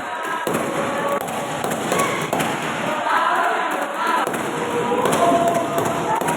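Spectators shouting and cheering at a sepak takraw match, with sharp thuds of the ball being kicked.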